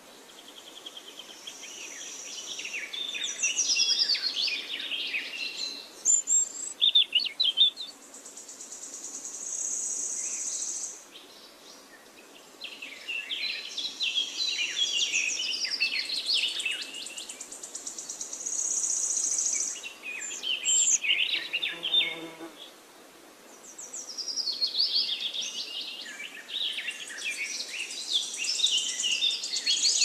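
Forest ambience of several birds singing in repeated bursts of chirping song, alternating with a high, steady insect buzz that comes and goes every few seconds.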